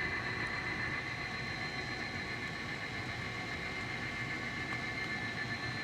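N scale model diesel train running at a steady speed: a continuous mechanical hum and rumble with a steady high whine.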